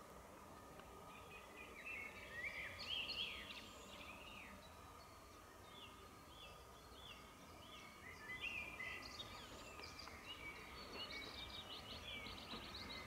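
Several birds singing and calling: many short chirps and slurred whistled notes, busiest about two to four seconds in and again from about eight seconds on. Underneath lies a faint steady hum.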